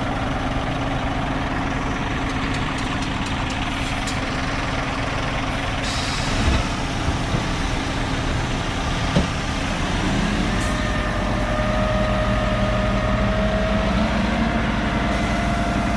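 Diesel engine of a ballast delivery lorry running steadily. About ten seconds in, the engine note rises and holds higher and a little louder, with a couple of brief knocks before it.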